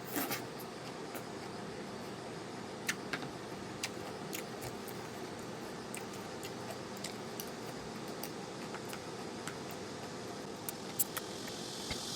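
Scattered light clicks and clinks of tableware, such as chopsticks or utensils against dishes, during a meal, over a steady background hiss.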